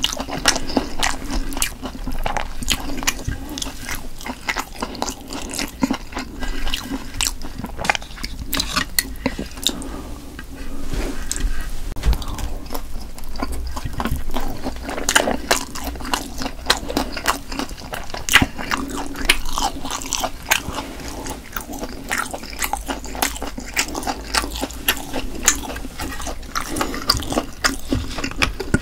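Close-miked biting and chewing of Korean sundae (blood sausage), a steady run of many quick, sharp mouth clicks.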